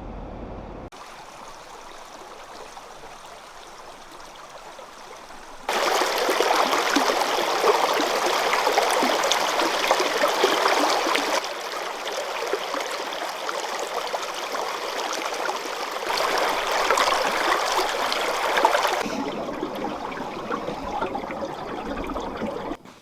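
Rushing water of a mountain stream, a steady hiss and splash heard in several clips joined by hard cuts, loudest through the middle.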